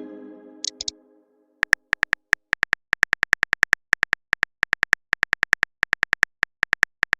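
A chat app's keyboard typing sound effect: a rapid run of short, identical clicks, about three to four a second. It starts after the ringing tail of a message chime dies away in the first second.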